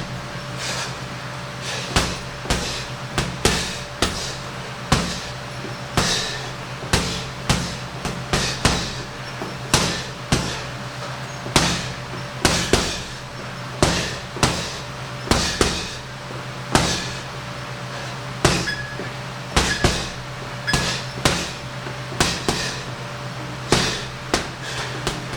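Punches landing on a heavy punching bag: sharp, irregular thuds about one or two a second, some thrown in quick pairs and combinations.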